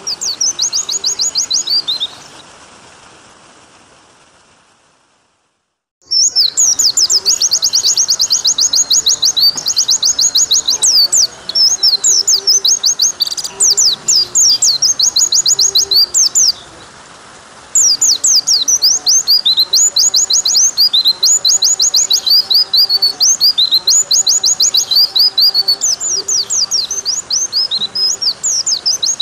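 White-eye (pleci) song: long, rapid trills of high, quickly falling notes in repeated runs, over a steady water sound. The song fades out about two seconds in and comes back strongly about six seconds in, with a short break a little past the middle.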